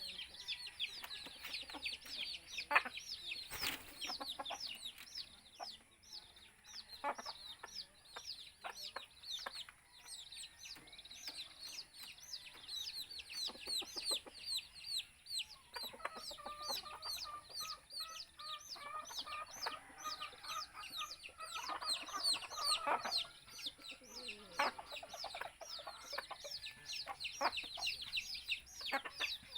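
A flock of chickens clucking and calling: a dense chatter of short, high, falling calls, with lower clucks joining about halfway through.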